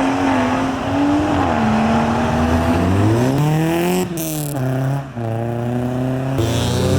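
Car engine pulling away hard: its pitch climbs, drops sharply twice at gear changes, and climbs again, with a brief hiss at the first shift.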